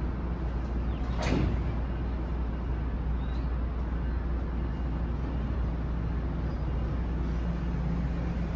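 NJ Transit Multilevel passenger coaches rolling slowly past as the train departs: a steady low rumble of wheels and running gear. A short, loud hiss cuts in about a second in.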